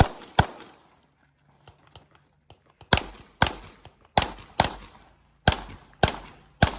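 Pistol shots in a practical-shooting (IPSC) course of fire. One shot comes just after the start, then a lull of about two and a half seconds. From about three seconds in, the shots come in quick pairs, each pair about half a second apart, as a competitor fires two shots per target. Each shot is sharp with a short echoing tail.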